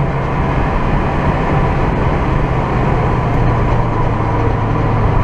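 Turbocharged Toyota 2ZZ four-cylinder engine in an MR2 Roadster, running at steady revs with a constant low note under loud road and tyre noise heard inside the cabin.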